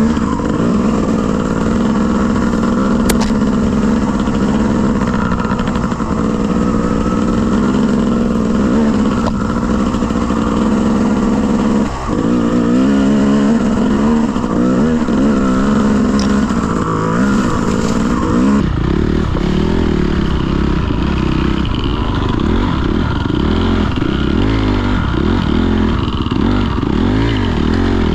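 Dirt bike engine revving up and down repeatedly, its pitch rising and falling. About two-thirds of the way through the sound turns abruptly duller.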